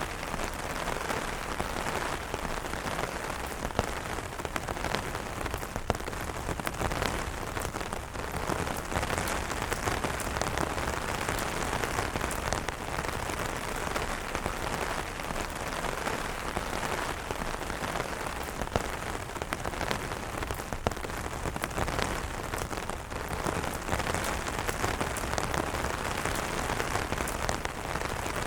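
Steady rain falling on an umbrella canopy, a constant patter with many single drops tapping sharply on the fabric.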